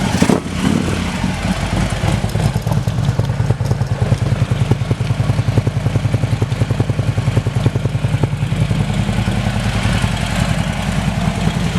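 Harley-Davidson V-twin idling steadily through an aftermarket S&S exhaust, a low, rumbly, evenly pulsing beat.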